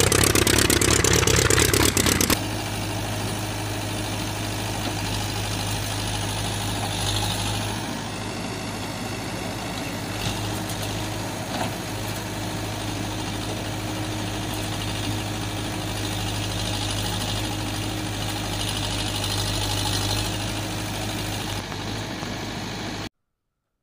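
Engine running steadily at idle, louder and busier for the first couple of seconds, then cutting off abruptly near the end.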